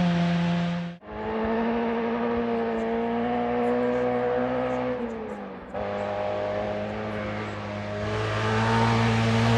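Rally car engines running at high revs, each held at a fairly steady pitch. They are broken by two abrupt cuts, about a second in and again past halfway, and the last one grows louder toward the end.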